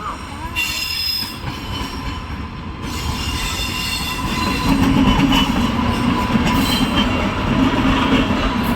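A train running along the track, a steady rumble and hiss of wheels on rails that grows louder over the first half, then holds.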